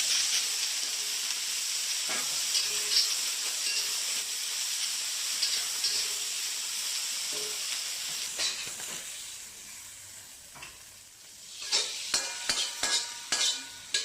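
Wild greens stir-frying in hot oil in a wok: a loud sizzle that slowly dies down after about eight seconds. Near the end, a quick run of sharp metal clacks of the spatula against the wok.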